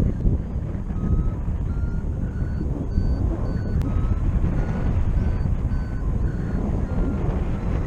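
Paragliding variometer beeping in short, evenly spaced pips, about two a second, with the pitch stepping a little up and down: the vario's signal that the glider is climbing in lift. Wind rushes over the microphone underneath.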